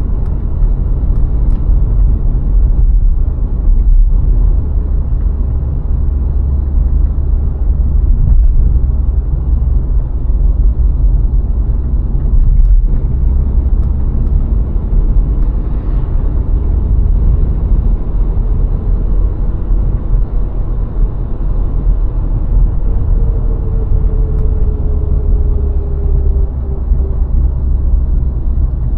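A VW Golf IV 1.6 driving along a road: a steady, loud low rumble of tyre and wind noise, with the engine underneath. Near the end, a faint whine falls slightly in pitch.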